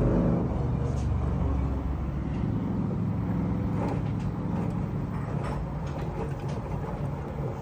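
Washing machine with newly fitted drum bearings running its wash cycle, the drum turning with a steady low hum and a few light knocks.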